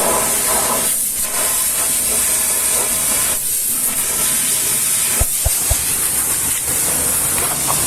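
Pressure washer's high-pressure water jet spraying steadily, easing briefly about a second in and again about three and a half seconds in. A few short, low knocks come a little after five seconds.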